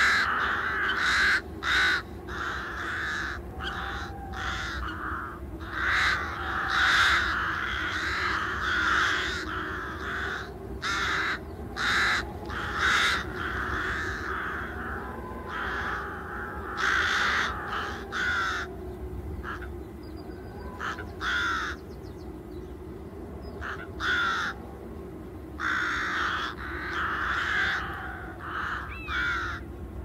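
Wild birds giving harsh, raspy calls one after another, some overlapping, with brief gaps between them, over a low steady hum.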